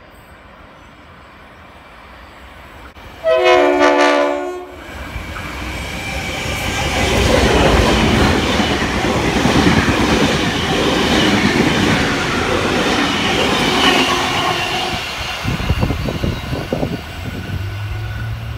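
The Kiama picnic train, a heritage passenger train, sounds one loud horn blast of about a second and a half, then runs through the station. A rush of wheel and carriage noise builds, holds, and tapers as it moves away, with wheels clattering over rail joints near the end.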